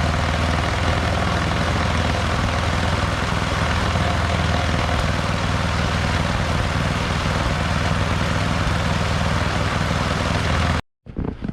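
Gas snowblower engine running steadily at a constant speed, cutting off abruptly near the end.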